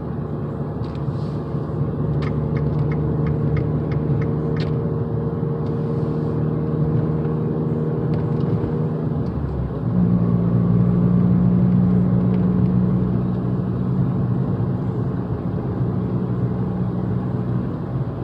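Fiat 500 Abarth's 1.4-litre turbocharged four-cylinder engine droning steadily on the move; about ten seconds in its note changes pitch and gets louder, as when the throttle is opened. A short run of quick, even ticks sounds between about two and five seconds in.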